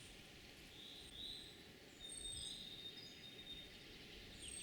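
Faint wild birdsong: several short, high chirps and thin whistles scattered over quiet outdoor background noise.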